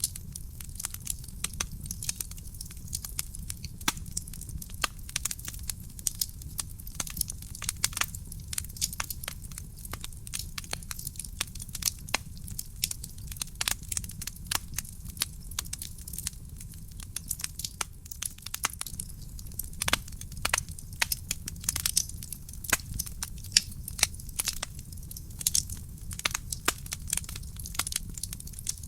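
Wood fire burning in a fireplace: dense, irregular crackling and popping of burning logs over a low, steady rumble of the flames.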